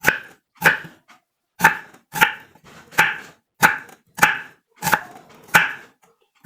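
Knife chopping onions on a cutting board: about ten sharp chops, roughly one every half second or so.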